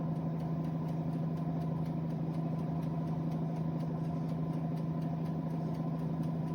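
Air fryer toaster oven running, its fan and motor giving a steady hum with one strong low tone.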